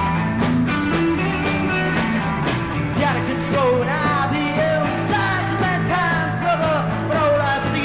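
Psychedelic rock band playing an instrumental passage over a steady bass line. From about three seconds in, a lead line slides and bends in pitch.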